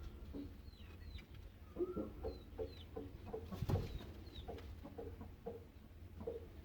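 Domestic hens clucking in a run of short, repeated calls, with faint high chirps from small birds above them and a single sharp knock about halfway through.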